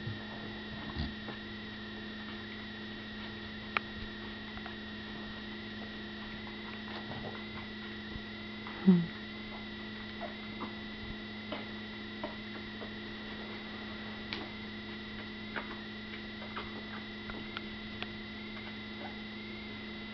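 Steady mains hum, with faint scattered squeaks and clicks from two-week-old bulldog puppies nursing. One louder, short rising squeak about nine seconds in.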